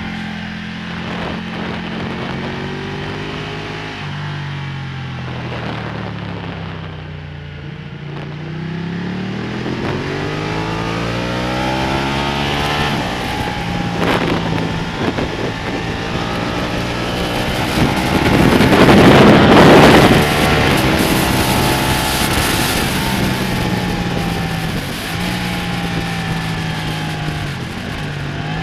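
Ducati Panigale's L-twin engine on track, revs dropping and climbing again and again through gear changes and corners. Partway through, a loud rush of wind noise on the onboard microphone swells and becomes the loudest sound.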